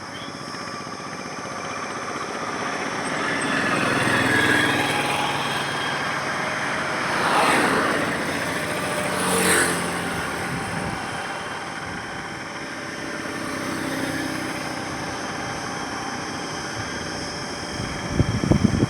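Steady road traffic, with motor vehicles passing one after another and engine hum rising and falling. Two vehicles pass close by, a couple of seconds apart, in the middle. An uneven low rumble starts near the end.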